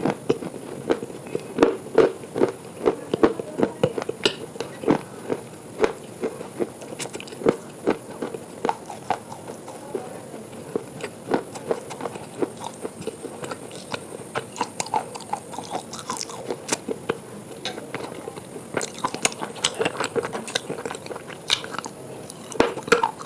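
Close-up crunchy eating: a person biting and chewing crisp food, with a steady run of irregular sharp crackles several times a second.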